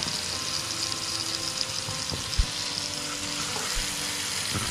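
Pineapple rings frying in melted butter in a nonstick pan, with a steady hissing sizzle. A single short knock comes about halfway through.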